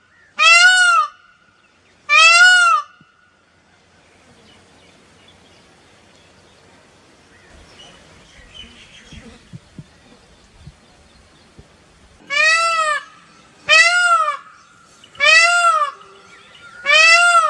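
Indian peafowl (peacock) calling: loud, piercing calls, each under a second, rising then falling in pitch. Two come at the start, and after a quieter stretch four more follow about a second and a half apart.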